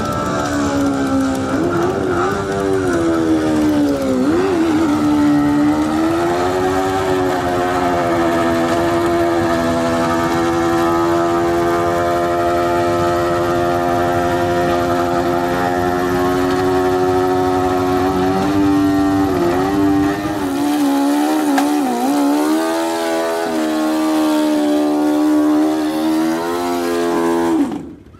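Motorcycle engine held at high revs during a burnout, a loud, steady high note with a few brief dips and wavers in revs, cutting off sharply near the end.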